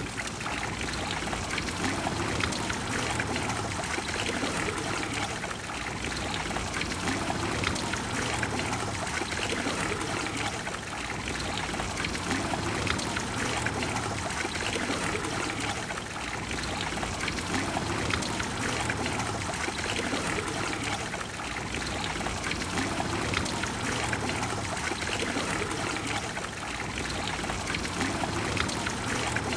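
Water of the Trevi Fountain flowing and splashing, a steady, unbroken sound.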